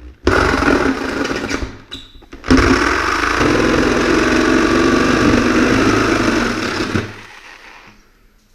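Reciprocating saw cutting into an insulated door: a burst of about a second and a half, a short pause, then a steady run of about four seconds that winds down near the end.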